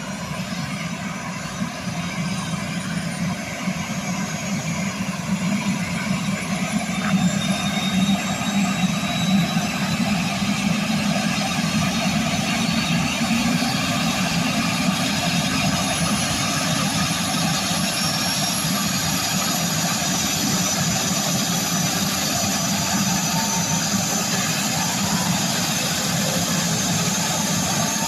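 Helicopter running: a steady rapid rotor chop with a faint high turbine whine above it, growing somewhat louder after about seven seconds.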